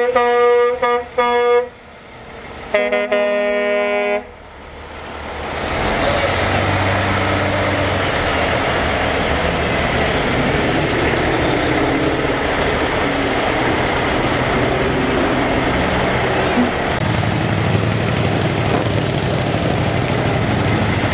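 Truck air horns: a few short blasts, then a longer blast from a lower-pitched horn about three seconds in. Then the diesel engine noise of passing trucks swells and holds steady.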